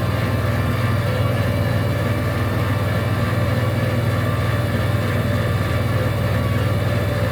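An engine running steadily at idle: a low, even hum with a fast regular pulse that does not change.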